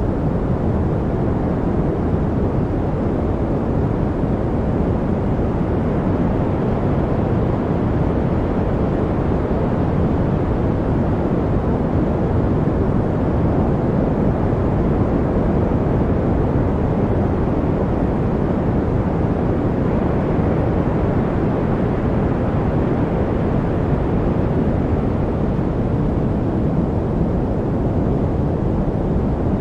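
Steady, unchanging noise of a study 'white noise' track, deep and rushing, with most of its weight low down like brown noise and little hiss on top.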